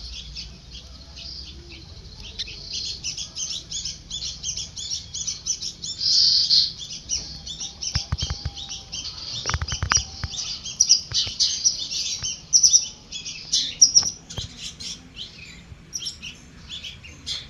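Nestling birds, a cuckoo chick and its host step-sibling, chirping rapidly and continuously in thin, high peeps, with a few soft knocks near the middle.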